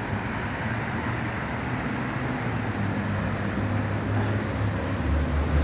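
Steady road traffic noise from a busy multi-lane road, with a passing vehicle's low engine sound growing louder near the end.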